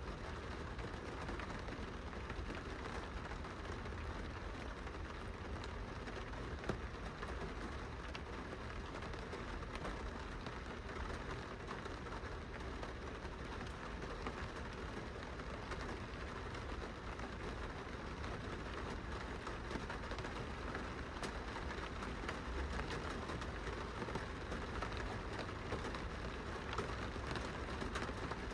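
Rain falling steadily on a glass window: a dense, even patter with a few sharper drop ticks, over a steady low rumble.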